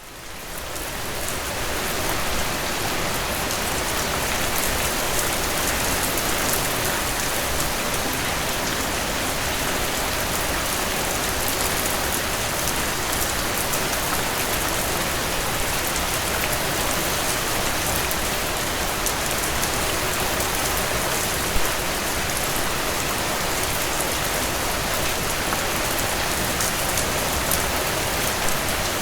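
Heavy rain falling steadily on a tin roof, a dense hiss of many drops. It fades in over the first couple of seconds, and one single louder drop strikes about three quarters of the way through.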